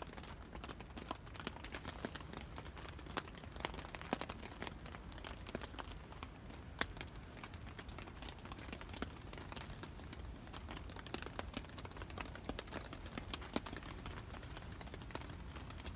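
Raindrops tapping irregularly on a tent or tarp: a few sharp ticks a second over a steady low hiss of rain.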